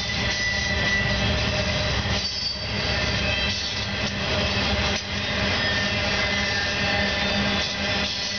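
Norfolk Southern intermodal freight train's flatcars, loaded with truck trailers, rolling past at speed: steel wheels on the rails making a steady, continuous noise.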